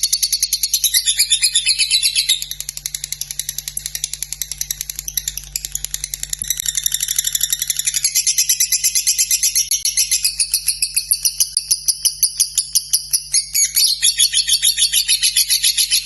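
Lovebird in 'ngekek' song: a long, unbroken, rapid chattering trill of high-pitched pulses, softer for a few seconds from about two seconds in and loud again from about eight seconds.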